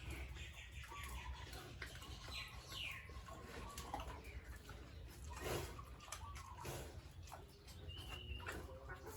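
Farm animals calling: a run of short pitched calls and cries, some held and some sliding in pitch, with scattered clicks and knocks in between.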